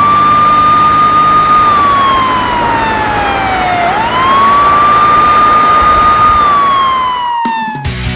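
Emergency vehicle siren wailing: the tone rises quickly, holds, then falls slowly, twice over, and cuts off just before the end.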